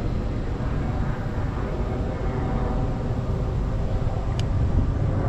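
A small boat motor running steadily with a low, even hum.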